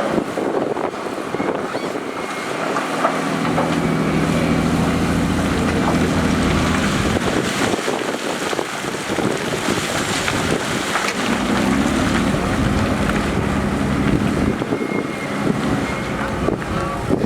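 Diesel engine of heavy earthmoving machinery running while it works, its engine note swelling and easing.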